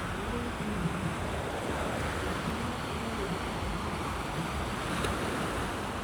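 Sea waves washing onto the beach in a steady surf, with a light breeze rumbling on the microphone.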